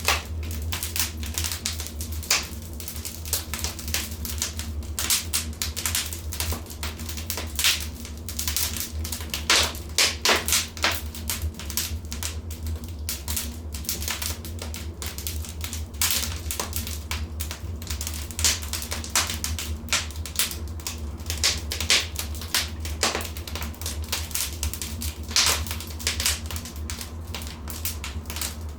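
Wood fire in a fireplace crackling, with many irregular sharp pops and snaps, some louder ones clustered around ten seconds in, over a steady low hum.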